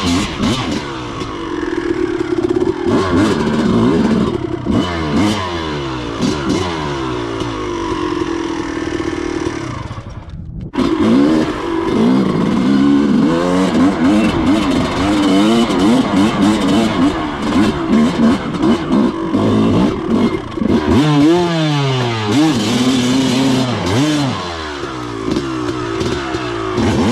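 Dirt bike engine revving hard up and down under load on a steep hill climb, its pitch rising and falling again and again, with a brief break about ten seconds in.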